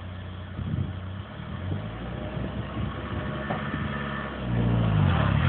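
Small hatchback's engine idling steadily, its revs rising and falling near the end.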